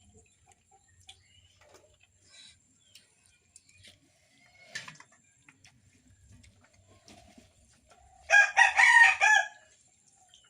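A rooster crowing once, loud and about a second long, near the end. Before it there are only faint scattered clicks and knocks.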